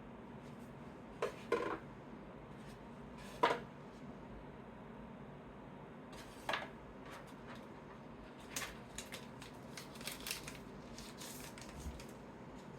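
Trading cards being handled and sorted by hand: scattered short clicks and slides of card, the loudest about three and a half seconds in, with a quicker run of them in the last few seconds, over a faint steady room hiss.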